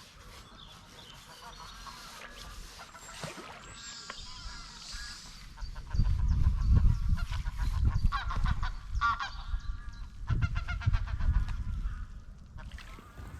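Geese honking repeatedly across the lake. A loud low rumble runs from about six seconds in until near the end, louder than the calls.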